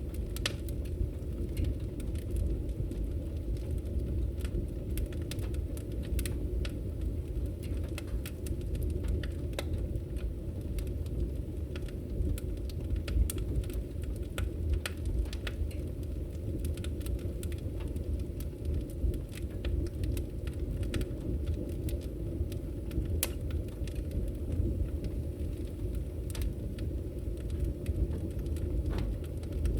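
Wood fire burning in a fireplace: a steady low rumble of the flames with many small, irregular crackles and pops from the logs.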